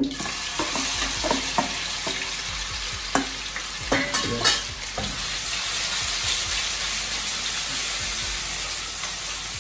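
Seasoned chicken breast strips sizzling in hot oil in a wok, the steady high sizzle starting the moment they go into the pan. A metal spoon clinks and scrapes against the pan a few times a few seconds in as the strips are stirred.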